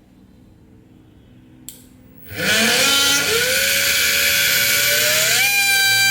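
The small DC motor of a homemade mini bench drill switching on after a click and spinning up with a rising whine. It holds a steady high whine, then climbs to a higher speed near the end.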